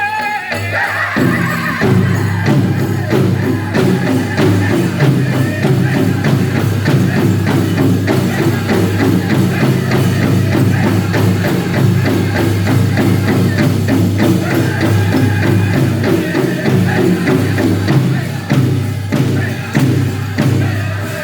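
Powwow drum group performing a dance song: men singing together over a steady beat on the big drum. High, wavering lead singing is heard at the start and again near the end.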